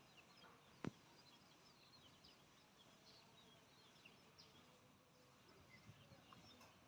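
Near silence, with faint bird chirps in the background and a single sharp click just before a second in.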